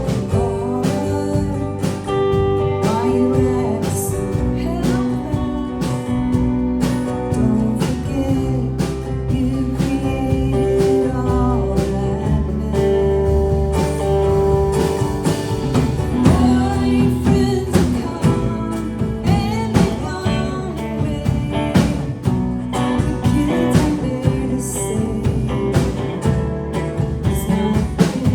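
Band playing a country-blues song with guitars, held notes over a steady beat.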